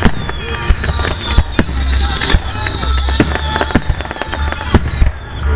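Aerial firework shells bursting in rapid, irregular bangs, about two a second, over loud music from the pyromusical soundtrack.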